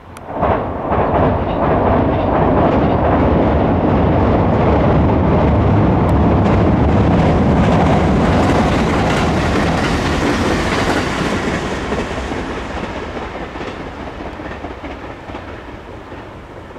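JR West 287 series electric train passing close by, its wheels clattering on the rails. The sound comes in abruptly about half a second in, stays loud for several seconds and then fades as the train moves away.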